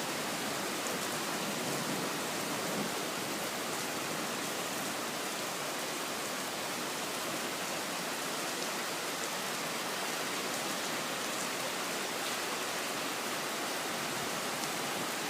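Heavy rain falling hard in a thunderstorm, a steady, even hiss with no thunder claps.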